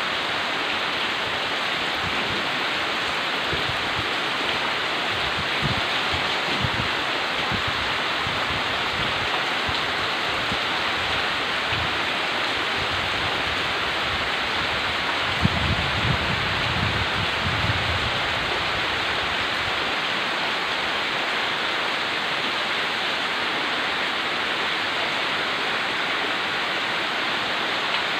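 Rain falling steadily, an even hiss that holds throughout, with a few low thumps about halfway through.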